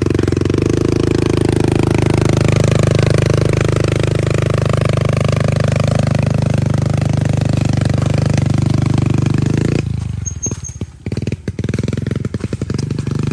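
Pit bike engine running hard under throttle as the bike is ridden up a slope, its pitch wavering, then cutting off abruptly about ten seconds in, leaving scattered knocks and rustling.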